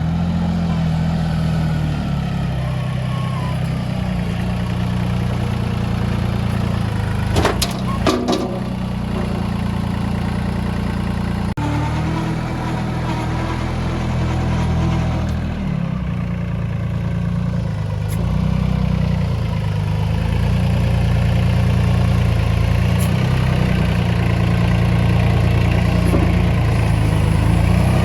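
Mini tractor's diesel engine running steadily, with its pitch shifting a few times as the engine speed changes. A few sharp clanks come about eight seconds in.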